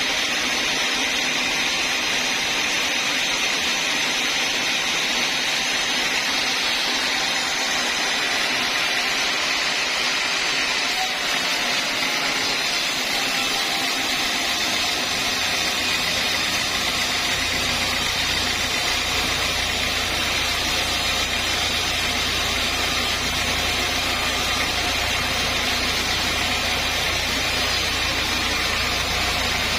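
Sawmill saw running with a steady, loud mechanical noise; a deep hum joins about halfway through.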